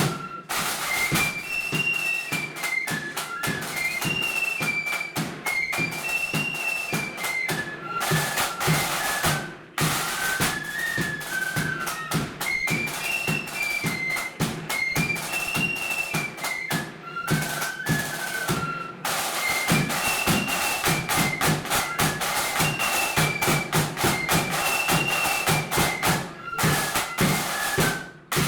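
Blood-and-thunder flute band playing a march: flutes carry the tune in unison over fast snare drums and a bass drum. The sound drops out briefly a few times.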